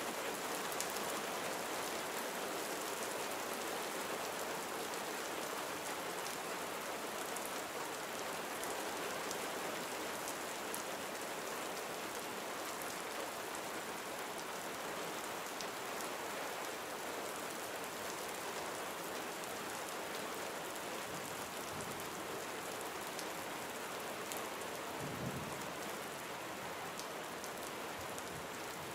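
Gentle rain falling steadily: a dense, even hiss with scattered sharp drop ticks. There is a brief low rumble about three-quarters of the way through.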